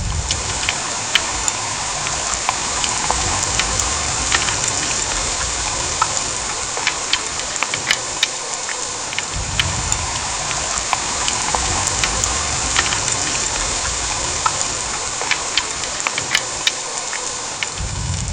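Heavy rain falling steadily, a dense hiss with many sharp, separate drop ticks and a low rumble that swells and fades a few times.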